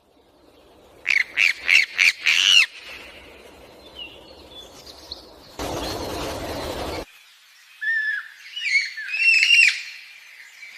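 Small bird calling: a quick run of five sharp chirps, then after a pause a busier cluster of chirps and short trills. In between there is a burst of steady rushing noise lasting about a second and a half.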